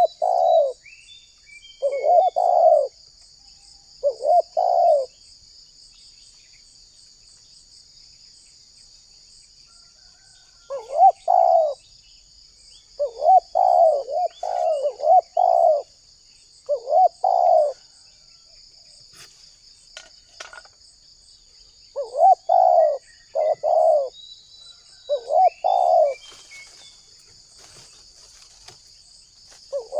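Spotted dove cooing in short repeated phrases, in three bouts with pauses of several seconds between them, over a steady high insect drone.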